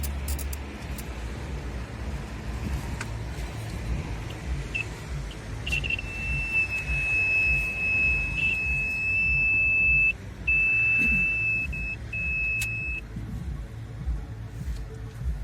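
A steady, high-pitched electronic beep held for about seven seconds, cutting out briefly twice, over a low, uneven rumble.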